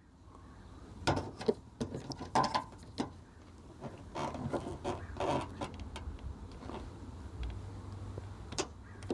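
Irregular small clicks, taps and scrapes of a new clip being bent around and pushed onto a car door handle, with no steady rhythm.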